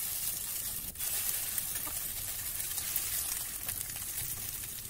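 Cabbage, rice-noodle and egg batter sizzling in hot oil in a stainless steel frying pan as portions are laid in: a steady high hiss that dips briefly about a second in.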